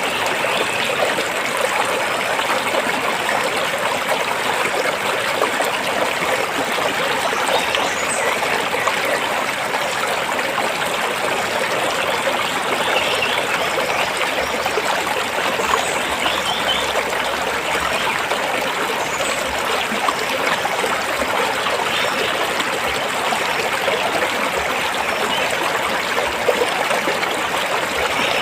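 Stream water flowing and splashing over rocks in a steady rush.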